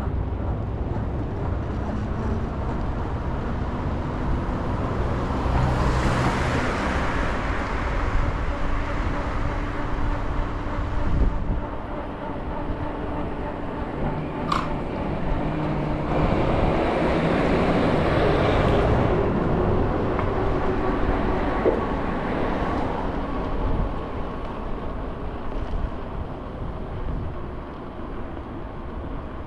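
City street traffic heard from a moving scooter: a steady low road rumble, with vehicles passing about six seconds in and again around the middle to two-thirds of the way through. A brief high squeak comes near the middle.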